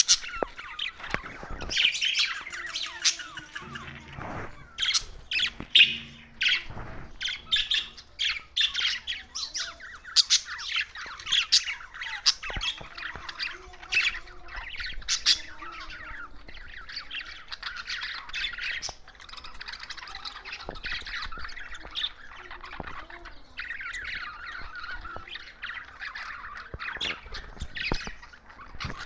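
Budgerigars chattering nonstop, a dense mix of rapid chirps, warbles and sharp squawks from several birds.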